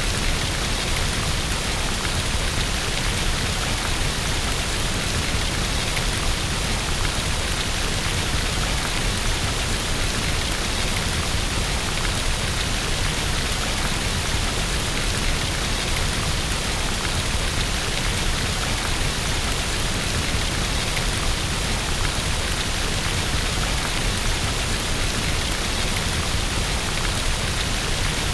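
Steady rain against a window, an even, unbroken hiss.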